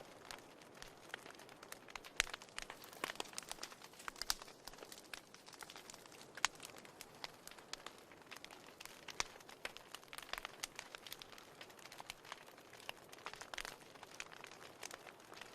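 Wood fire burning in a fireplace: irregular crackles and pops over a soft steady hiss of flame.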